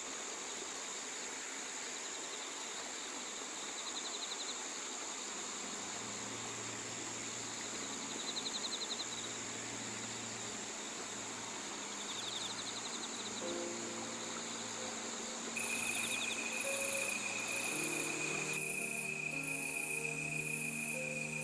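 A chorus of night insects (crickets and similar) singing steadily in high, continuous trills, with a brief trill repeating every few seconds. About two-thirds of the way in, a pulsing high chirp and a second steady trill join, making the chorus louder.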